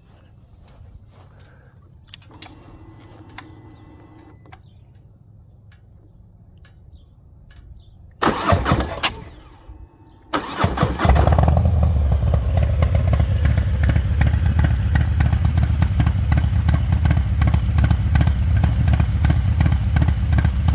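Harley-Davidson Milwaukee-Eight 114 V-twin with a Chris Rivas 464 cam and Shark Road slip-on exhaust being started: after about eight seconds of quiet it cranks briefly, then fires a couple of seconds later and settles into a loud, steady idle with a deep rumble.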